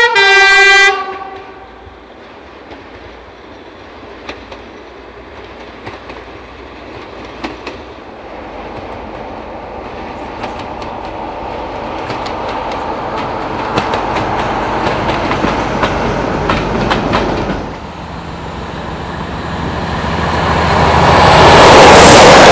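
A UK train horn sounds loudly for about a second. A train then approaches with wheel clicks over the rail joints, growing steadily louder. After a sudden drop in level late on, a train rushes past loud and close at the end.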